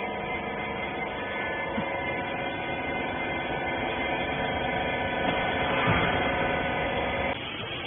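Rag baler's electric hydraulic pump running, a steady hum with several steady tones, cutting off suddenly about seven seconds in.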